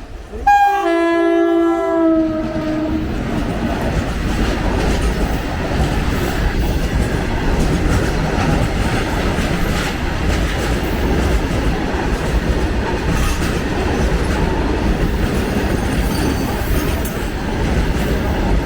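Indian Railways WAG-7 electric locomotive sounding its horn, a two-tone blast of about two and a half seconds that drops slightly in pitch as it passes. The long freight train's wagons then roll by with a steady rumble and wheels clattering over the rail joints.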